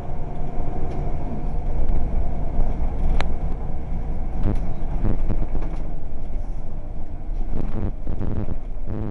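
Scania L94UB bus with a ZF four-speed gearbox running: a steady low engine drone with occasional short knocks and a faint whine that fades out about two seconds in.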